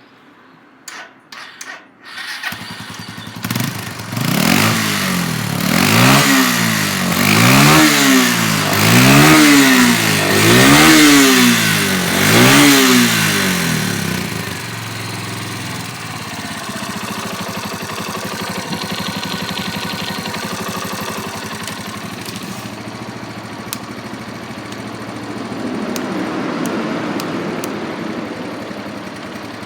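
2007 Suzuki Grasstracker Big Boy's 250 cc single-cylinder four-stroke engine being started: a few clicks, the engine catches about two and a half seconds in, is revved up and down five or six times, then settles to a steady idle.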